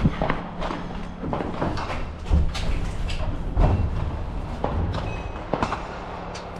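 Footsteps and rattling gear picked up by a body-worn camera as the shooter moves, with irregular clicks and knocks and a few heavier thumps about two, three and a half, and four and a half seconds in.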